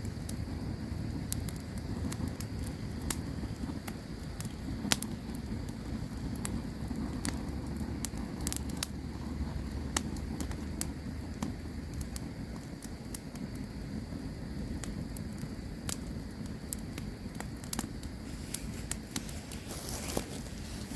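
Campfire crackling: irregular sharp pops and snaps over a steady low rushing. A faint steady high-pitched hum runs underneath.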